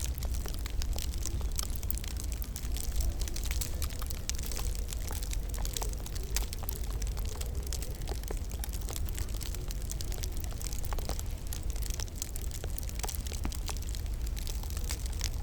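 Wood fire crackling in a fireplace: dense, irregular snaps and pops over a steady low rumble.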